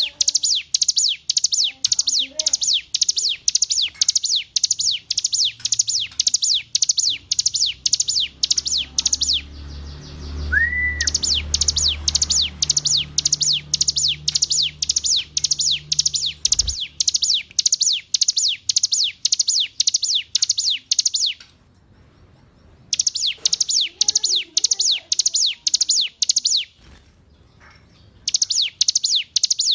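Bar-winged prinia (ciblek gunung) singing: long runs of sharp, repeated high notes, about three a second, broken by a few short pauses. A low rumble sits underneath for several seconds near the middle.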